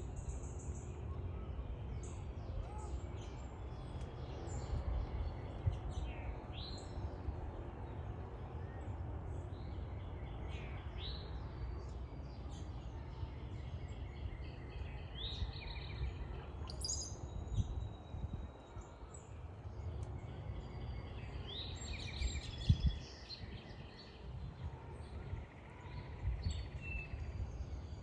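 Tufted titmouse giving short, scattered chirps and brief sweeping calls, over a steady low rumble.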